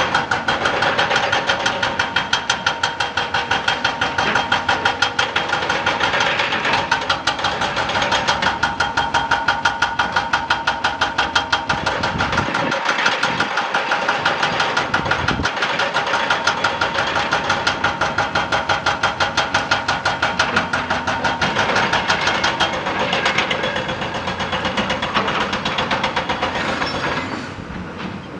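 Excavator-mounted hydraulic rock breaker hammering rock in a fast, even rhythm of several blows a second, with the machine's engine running underneath. The hammering stops near the end.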